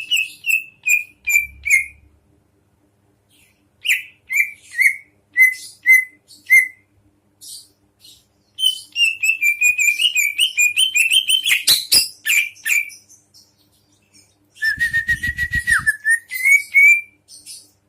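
Songbird singing in bursts of rapid, repeated whistled chirps with short pauses between phrases. Near the end comes a buzzier, rattling phrase.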